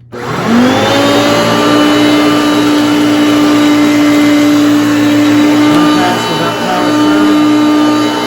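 Hoover Concept One upright vacuum cleaner switched on: the motor spins up with a rising whine over about a second, then runs steadily, its pitch briefly dipping and wavering about six seconds in.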